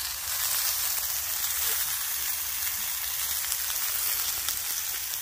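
Steak, mushrooms and asparagus sizzling in a frying pan: a steady, even hiss of frying fat.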